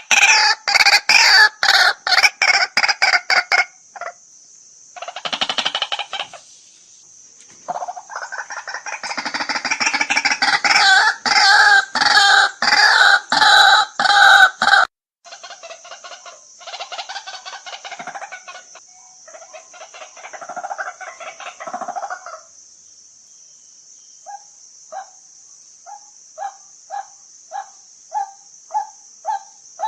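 White-breasted waterhen calling: loud rapid series of harsh repeated notes, with several calls overlapping in the first half, fading to quieter calls, then a steady run of single notes about two a second near the end. A steady high-pitched insect buzz runs underneath.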